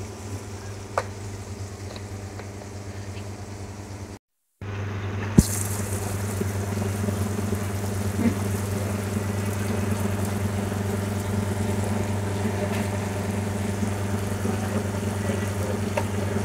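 Okra frying in oil in a wide steel pan: a steady sizzle over a low hum, as the okra is fried to cook off its sliminess. After a brief break about four seconds in, the sizzle is louder, with a single click soon after.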